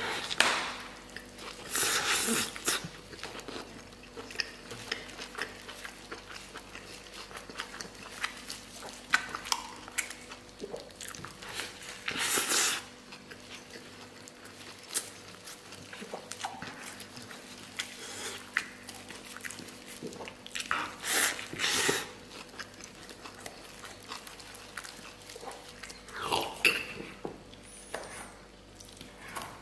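A person eating up close: biting into and chewing a large soft stuffed flatbread with beef, with wet mouth and lip-smacking sounds and a few louder bites or slurps standing out. Near the end he drinks from a plastic water bottle.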